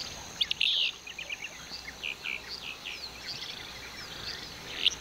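Natural bush ambience: many short bird chirps and calls over a steady, high insect drone.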